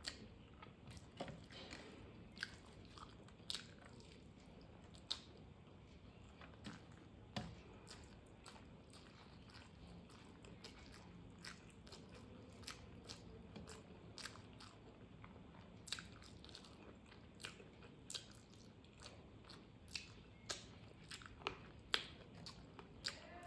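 A person chewing a mouthful of rice and curry close to the microphone, with frequent sharp, irregular mouth clicks and smacks.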